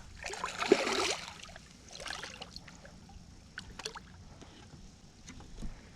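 Water sloshing and splashing around a small boat, louder in the first second, then fainter water noise with a few light knocks and clicks.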